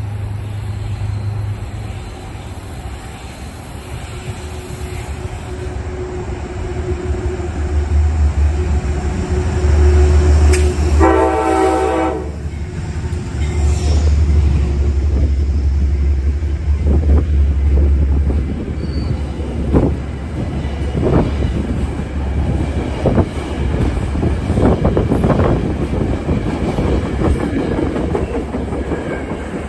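Amtrak train led by a GE Genesis diesel locomotive approaching and passing close by. A low engine rumble builds, the horn sounds once for just over a second near the middle, and then the coaches' wheels clatter over the rail joints as they go past.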